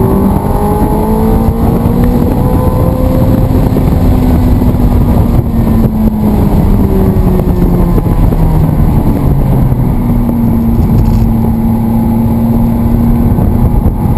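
Sports car engine running hard on a racetrack, with dense road and wind noise. Its pitch rises over the first few seconds, then slowly falls, drops again around nine seconds in and holds steady near the end as the driver changes speed and gears.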